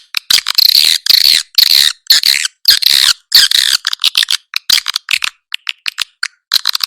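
Edible-nest swiftlet calls played as a lure recording: a run of harsh, rasping chirps about a third of a second each, then a fast clicking rattle from about three and a half seconds in, with chirps again near the end.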